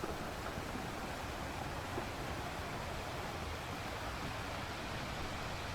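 Sea waves washing onto the beach, a steady rushing wash with a low rumble of wind on the microphone.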